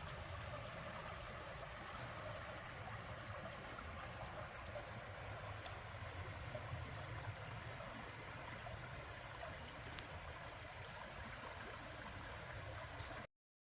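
Creek water flowing with a steady rushing sound, cutting off abruptly near the end.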